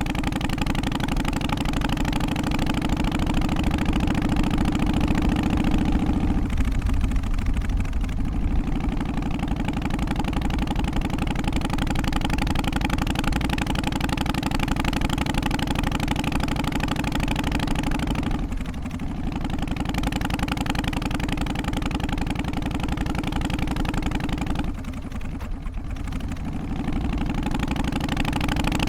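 Harley-Davidson Softail's Twin Cam 88 V-twin idling with its loping three-beat rhythm, easing off briefly a few times.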